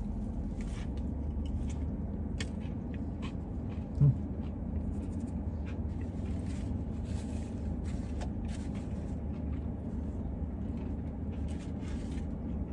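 Chewing and crunching of a bite of buttermilk-battered fried chicken sandwich with a super crunchy crust: short crisp crackles scattered throughout, over a steady low hum. A brief low thump about four seconds in is the loudest sound.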